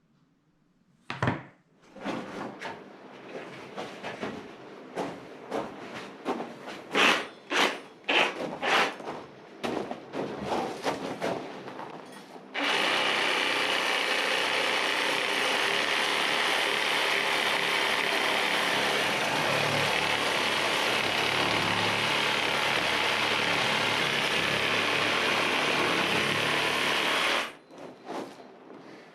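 Hand tool work on a wall, a run of irregular strokes, then a power tool running steadily for about fifteen seconds before cutting off suddenly, during work to repair a crack in the wall.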